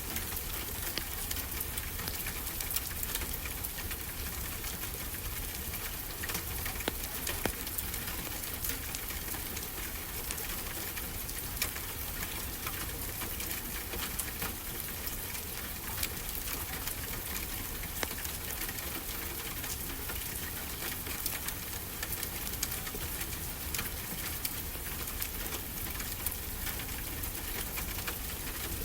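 Wood fire crackling, with frequent small sharp pops over a steady hiss, and a continuous wash of ocean surf beneath it.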